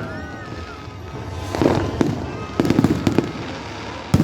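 Aerial fireworks bursting: single sharp bangs about a second and a half and two seconds in, a quick run of crackling reports around three seconds in, and another bang near the end.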